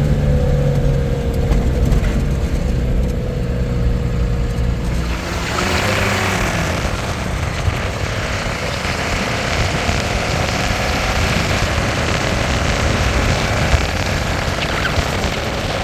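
A motor vehicle's engine running with a low steady hum. About five seconds in, the sound changes to a broad rushing noise like road or wind noise.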